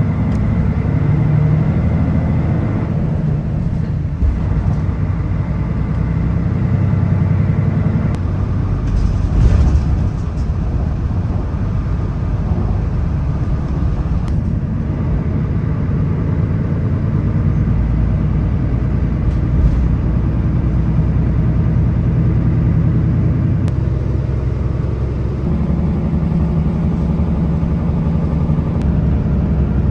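Road vehicle running steadily: a low engine hum with road noise.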